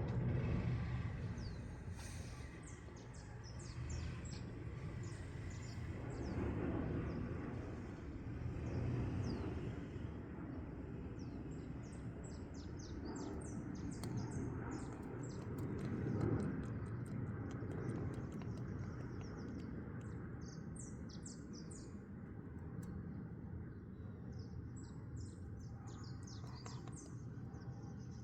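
Small birds chirping in quick, repeated short notes over a steady low rumble that swells and fades every few seconds.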